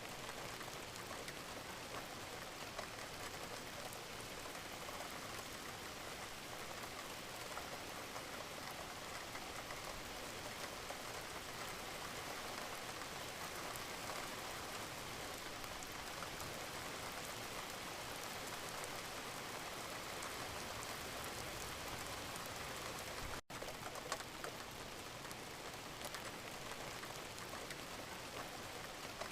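Steady gentle rain, a dense even patter of many small drops. About two-thirds of the way through, the sound cuts out for an instant.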